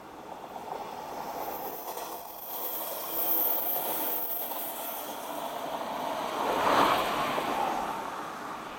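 Shinano Railway 115 series electric train passing by, its running noise swelling about a second in, loudest near the middle and again about seven seconds in, then fading away near the end, with a thin high hiss in the first half.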